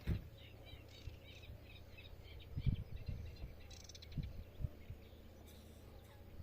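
Faint small birds chirping in short, repeated notes over a low steady hum, with a few soft low thumps.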